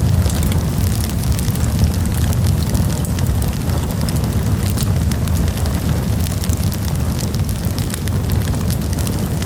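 Campfire burning: a steady low rumble of the flames with frequent small crackles and pops from the burning wood.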